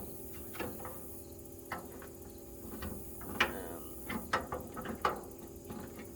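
Scattered light metal clicks and knocks from hands and tools working on a metal toolbox's drawers, with one louder knock about three and a half seconds in.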